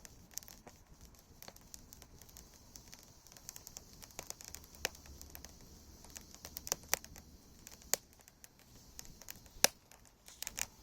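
Wood campfire crackling, with irregular sharp pops and snaps, a few of them louder than the rest.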